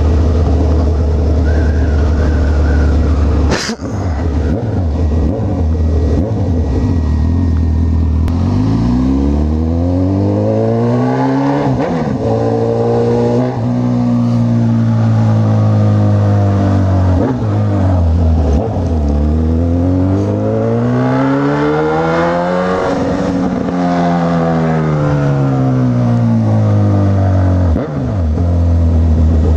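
Honda CB1000R inline-four engine under way: low and steady at first, then the revs climb and drop sharply twice, as on upshifts, wind down, and pull up again twice more. A single sharp click about four seconds in.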